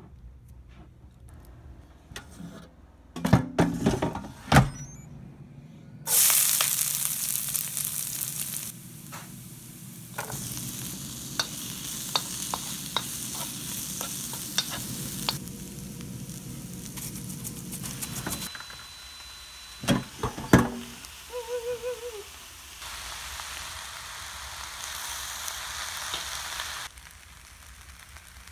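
Food sizzling as it stir-fries in a hot wok, starting about six seconds in and running in several cut segments, with clicks and scrapes of a wooden spatula stirring against the pan. A few sharp knocks come before the frying starts and again about two-thirds of the way through.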